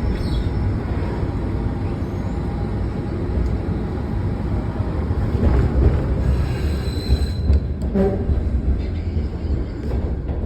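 Washington Metro train running on the track: a steady low rumble of wheels and running gear, with a thin high squeal about seven seconds in and a few sharp clicks soon after.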